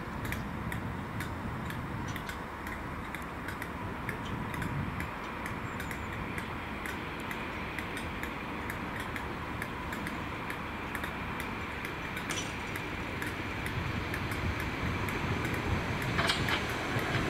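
A steady low rumble with a regular light ticking running through it. Over the last few seconds the rumble grows louder as a Merseyrail electric train approaches the platform.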